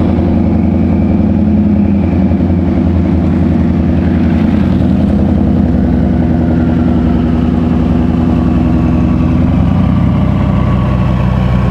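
Car engine running steadily at low revs, its pitch barely changing.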